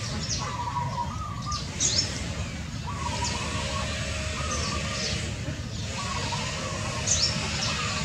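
Birds calling: short high chirps every second or two over a lower wavering call repeated about every one and a half seconds, with a steady low rumble underneath.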